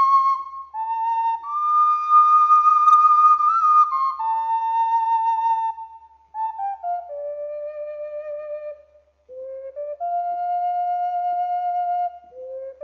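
Background music: a slow solo flute melody of long held notes with short slides between them, with a brief pause about nine seconds in.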